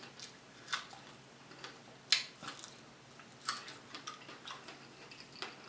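Close-miked mouth sounds of someone eating fresh fruit: faint, wet smacks and clicks of chewing, coming irregularly about eight times.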